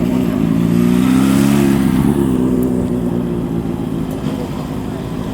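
Motorcycle engine running at low revs as a bike rolls by. Its exhaust note is loudest about a second or two in and then falls away into steadier, lower engine noise.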